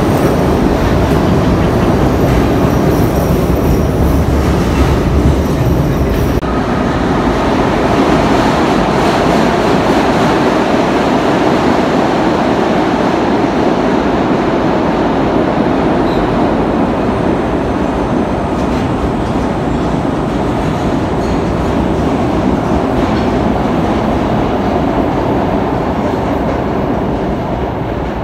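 A train running on the rails: a steady, loud rumble of wheels on track that fades a little near the end.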